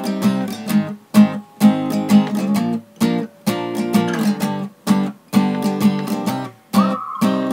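Acoustic guitar strumming chords in a steady, choppy rhythm, the instrumental introduction of a song before any singing. A high held, slightly wavering note joins near the end.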